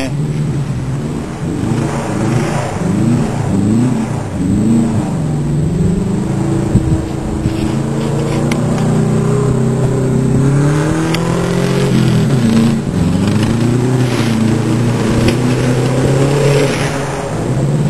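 Rallycross car's engine revving hard around the track, its pitch climbing and dropping again and again with throttle and gear changes. A single sharp bang about seven seconds in.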